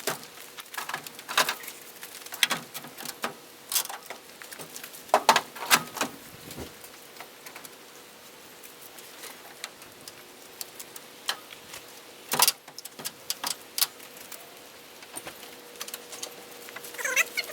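Irregular sharp clicks, clinks and knocks of hands-on work on the truck, over a faint steady hum, with a short squeaky chirp near the end.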